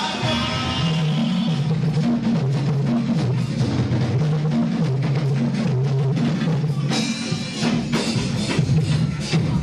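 Live band music: a drum kit keeping a steady beat over a bass line that steps from note to note.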